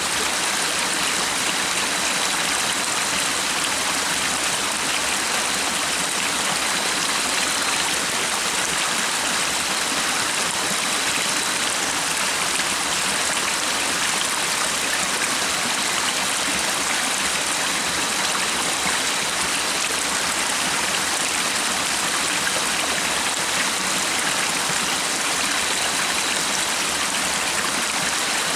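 A stream running steadily over stones: a constant, even rush of flowing water.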